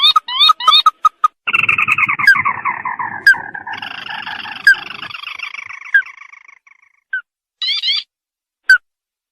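Recorded lure call of the sintar (red-eyed crake): a couple of quick rising notes, then a long, descending chattering trill overlapped by a higher trill that fades out about seven seconds in. Sharp single notes are scattered through it, and a short run of rising notes comes near the end.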